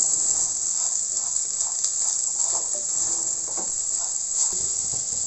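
Okra, cashews and chillies sizzling in oil in a nonstick kadai, a steady high hiss, with a wooden spatula stirring and scraping the pan now and then.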